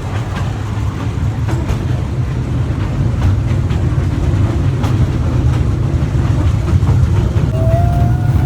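Train running on its rails with a steady low rumble and scattered clicks from the track. A short high tone comes in near the end.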